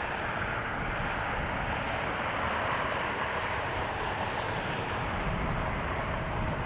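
Jet airliner engine noise, a steady rush with a faint steady whine coming in after about five seconds, over a low, uneven rumble of wind on the microphone.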